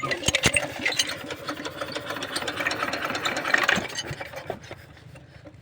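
Small single-cylinder diesel engine of a water pump set, a rattling, clattering mechanical noise that fades away about four seconds in.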